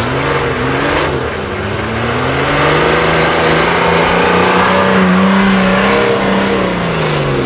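Off-road 4x4's engine revving hard under load as it climbs a snowy, muddy slope, the pitch rising over the first few seconds, held high, then falling near the end.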